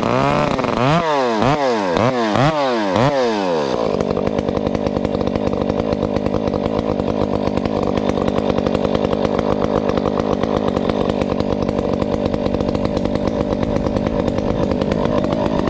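Husqvarna 372XP chainsaw with a ported muffler, revved up and down quickly several times. About four seconds in it settles into a loud, steady high-speed run.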